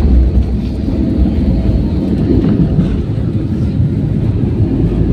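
Airbus A320 cabin noise during landing: a loud, steady low rumble of engines and airflow heard from inside the passenger cabin, heaviest in the deep bass right at the start.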